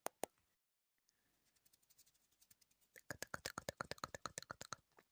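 A rapid run of soft, sharp clicks close to the microphone, about ten a second. They start faint and sparse after a moment of dead silence and become dense in the second half.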